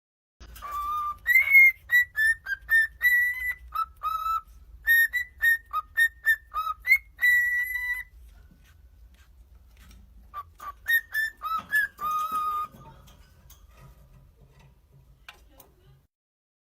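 Pet bird whistling a tune in short, clear notes: one long phrase of about a dozen notes, a pause, then a shorter phrase.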